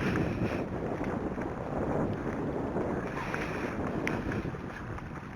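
Wind buffeting the microphone, a steady low rumbling hiss, with a few faint clicks scattered through it.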